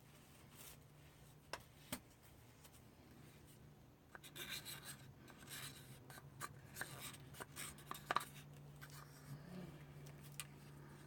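Quiet handling sounds from acrylic pour-painting supplies: scattered light clicks and taps, then from about four seconds in a stretch of rubbing and scraping with a few sharper clicks, over a faint low hum.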